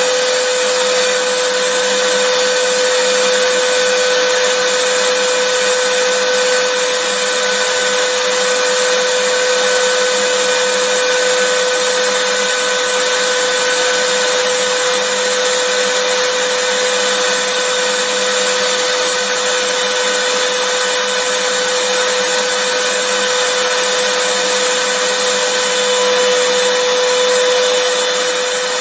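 Vacuum cleaner motor running steadily, a constant airy rush with a steady hum-like whine through it.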